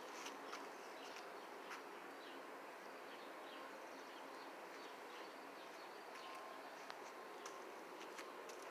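Faint outdoor ambience: a steady low hiss with scattered short, high chirps and light ticks.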